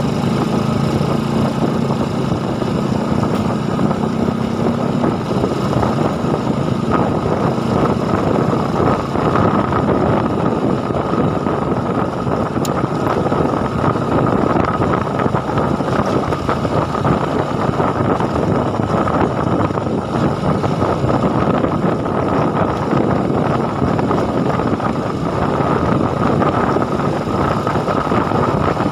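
A motorcycle engine running steadily while riding, mixed with road and wind noise. A clear engine note sounds for the first few seconds and then sinks into the noise.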